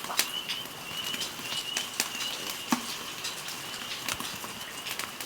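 Wood twigs burning in a charcoal grill fire, crackling and popping irregularly, with a faint steady high whine underneath.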